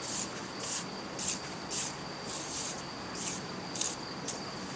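Dry leaves rustling in short strokes, about two a second, over a steady faint high-pitched whine.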